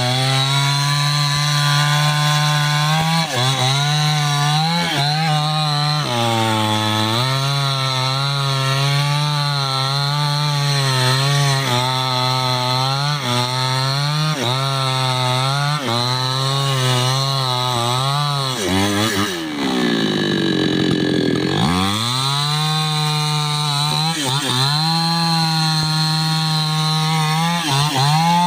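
Two-stroke chainsaw cutting into a gmelina tree, its engine pitch sagging under load and picking up again every second or two. About two-thirds of the way through it drops almost to idle, then revs back up.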